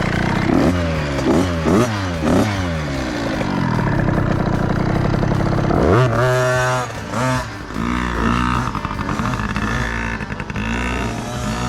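Small 50cc two-stroke pit bike engines revving again and again, the pitch rising and falling with each twist of the throttle, with a sharp climb about halfway through.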